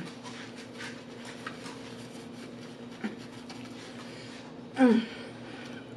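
Close-miked chewing with soft mouth clicks and smacks, and a short hummed "mm" about five seconds in.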